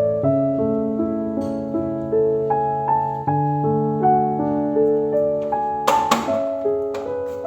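Background piano music, a gentle melody of single sustained notes over held bass notes. About six seconds in there is a brief noisy clatter.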